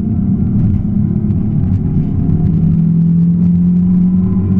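Suzuki Swift S1600 rally car's 1.6-litre four-cylinder engine pulling hard under load, heard from inside the cabin. Its note drops a step about two seconds in and then holds steady.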